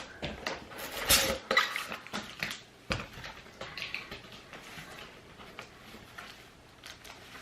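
Cardboard box and packaging being handled and opened: rustling and clicking with a few sharper knocks in the first three seconds, then fading to faint rustles.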